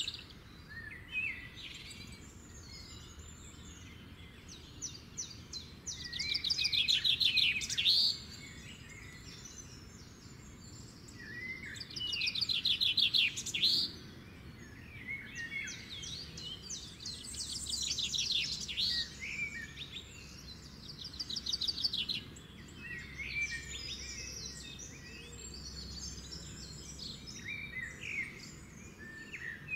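Songbirds singing. One bird repeats a loud, rapid trilled phrase of about two seconds several times, among shorter chirps from others, over faint steady low background noise.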